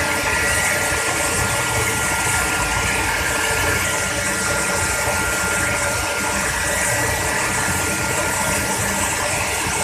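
Steady mechanical running noise with two constant high whining tones.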